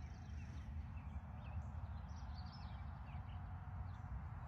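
Outdoor ambience: a steady low rumble of wind or distant traffic, with a few faint, short bird chirps.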